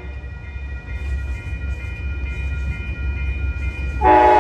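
Amtrak Coast Starlight passing behind two GE P42DC diesel locomotives: a steady low rumble with faint high steady tones over it. About four seconds in, the locomotive horn starts a loud blast.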